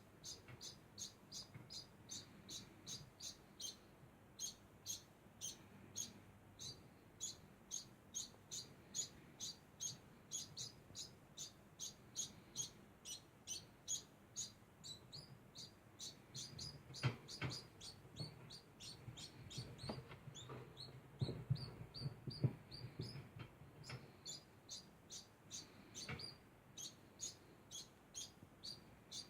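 Degu chirping without pause: short, high squeaks repeating about three times a second. Through the middle and later part some rustling and a few sharper knocks come in, louder than the chirps.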